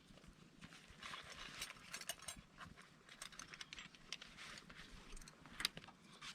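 Faint, irregular small clicks and light knocks, several a second, with one sharper click a little over five seconds in.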